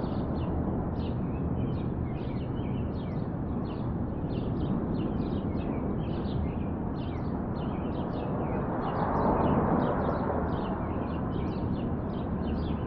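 Small birds chirping over and over, short quick calls, over a steady outdoor background noise that swells slightly about nine seconds in.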